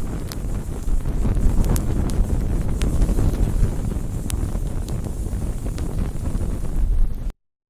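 Wood bonfire burning, with a steady low rumble and scattered sharp crackles and pops. The sound cuts off suddenly near the end.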